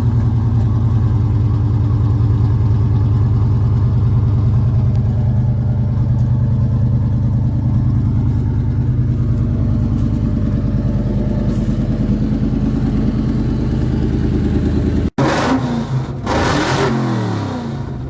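Supercharged 4.6-litre four-valve V8 of a 2003/04 SVT Mustang Cobra idling steadily just after a cold start. About fifteen seconds in, after a cut, the engine is revved in quick throttle blips, its pitch jumping up and falling back.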